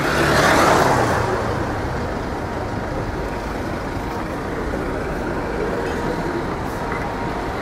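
Street traffic: a motor vehicle passes close by in the first second, then steady traffic noise follows.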